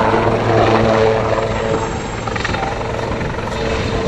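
Army Air Corps display helicopter running steadily overhead, its rotor and turbine making a constant drone with a steady hum.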